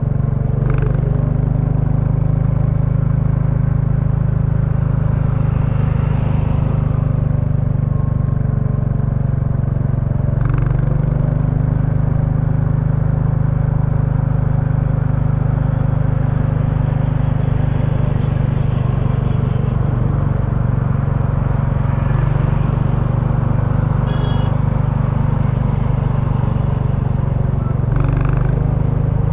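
Royal Enfield Bullet 350's single-cylinder engine and stock exhaust running steadily under way. The note shifts briefly about a second in, about ten seconds in and again near the end.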